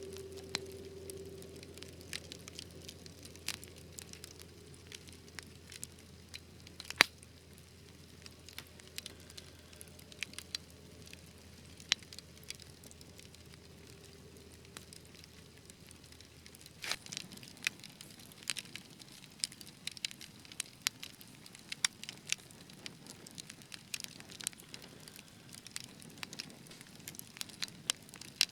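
Wood fire in a fireplace crackling, with scattered sharp pops, one loud pop about a quarter of the way in. The pops come much more often from about two-thirds of the way through, when a low hum underneath stops.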